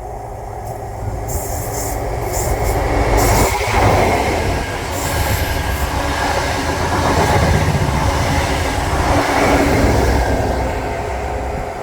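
A train passing close by: a loud rumble with wheel-on-rail noise that builds in the first few seconds, stays loud through the middle and eases slightly near the end.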